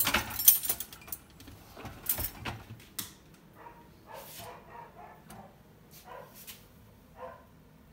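Clatter and clinks of washed dishes being handled in an opened dishwasher: sharp knocks in the first second and again about two to three seconds in, then a run of softer short sounds.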